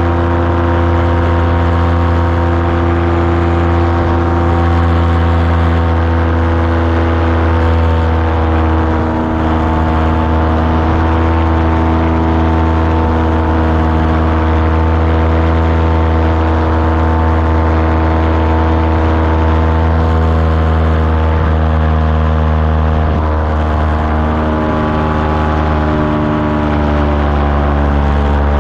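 Light aircraft engine running steadily, its pitch easing up slightly and then dropping near the end.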